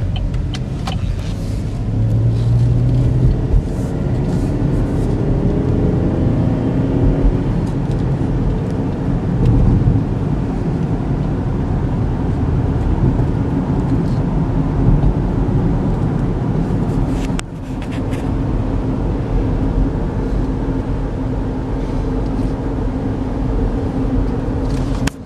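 Inside the cabin of a 2013 Chevy Equinox with the 3.6-litre V6, driving at close to highway speed: a steady low rumble of engine and road noise, with the engine tone rising over the first several seconds and a brief dip in the noise about two-thirds of the way through. Very quiet, with no rattles.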